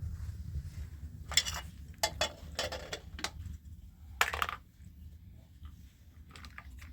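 A handful of sharp clinks and clatters of objects being handled, clustered in the first half, over a steady low rumble.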